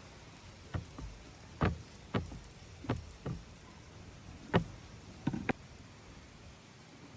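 A series of about nine sharp knocks spread irregularly over about five seconds, some coming in quick pairs.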